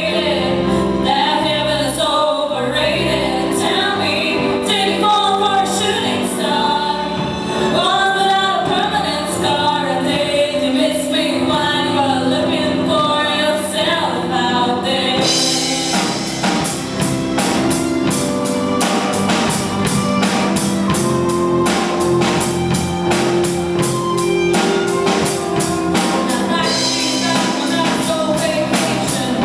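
Two women singing a pop song in duet over unplugged acoustic accompaniment. About halfway through, a fast, crisp rhythm comes in under the voices.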